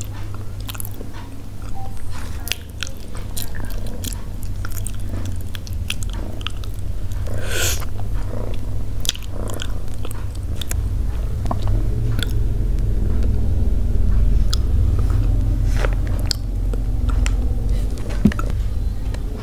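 Close-miked chewing and mouth sounds of a person eating soft steamed pumpkin, with many small clicks, over a steady low rumble throughout.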